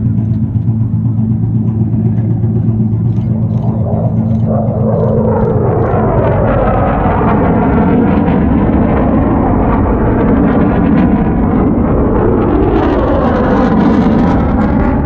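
Jet aircraft flying past: a low rumble that swells into a loud roar from about four seconds in, its pitch sweeping as it passes, growing brighter and more hissing near the end.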